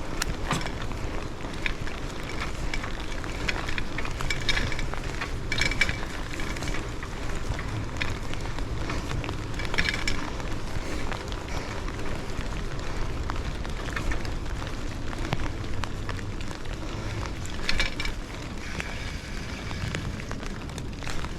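Steady rumbling wind noise on the microphone, with scattered crackles and rattles.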